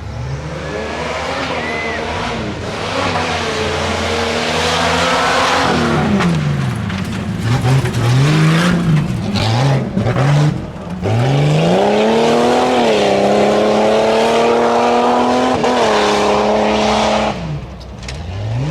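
A tuff truck's engine revving hard through an off-road obstacle run. The revs rise and fall over and over, then hold high for several seconds before dropping near the end.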